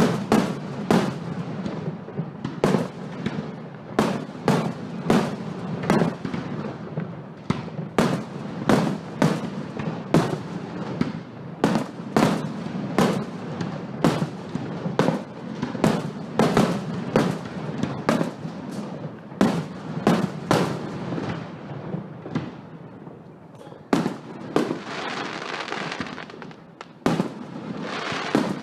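Fireworks display: a rapid, irregular series of sharp bangs from bursting aerial shells, about one to two a second, with crackling fizz near the end.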